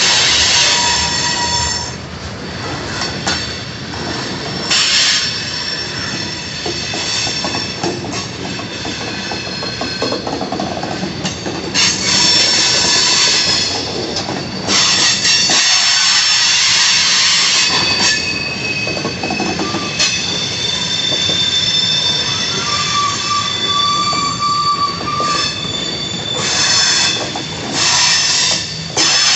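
Freight cars rolling past on steel wheels, with high wheel squeal against the rails that comes and goes in several stretches over the steady rolling noise.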